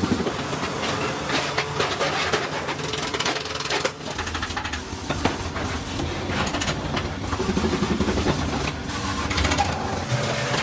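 Busy workshop clatter: many short knocks and taps over a steady mechanical background noise.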